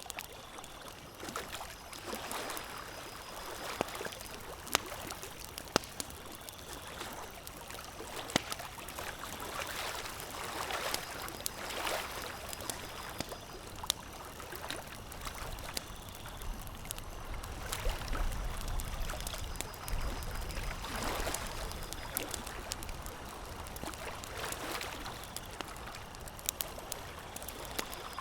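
Campfire crackling: scattered sharp pops over a steady rushing hiss that swells and fades every few seconds.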